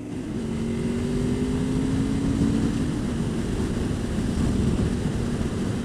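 Honda VFR800 VTEC's V4 engine pulling the motorcycle along. The engine pitch climbs slowly, then drops with a gear change about three seconds in, over steady wind noise.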